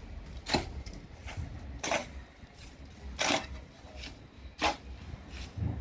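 Hand-tool strikes on building work, four sharp knocks evenly spaced about a second and a half apart.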